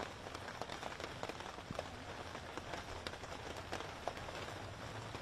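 Rain falling steadily, with scattered single drops clicking sharply close by.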